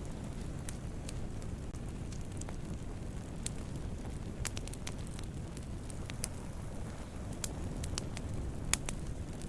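Wood fire burning with a steady low rumble and scattered sharp crackles and pops, a few louder snaps in the second half.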